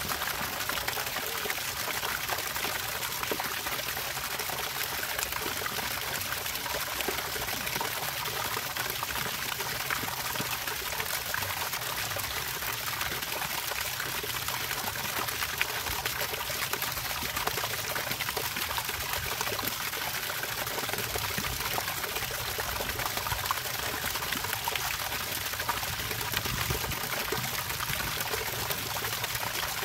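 Steady trickling, splashing water running without pause.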